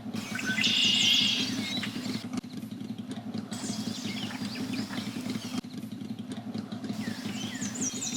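An engine running steadily at low revs, with birds chirping over it.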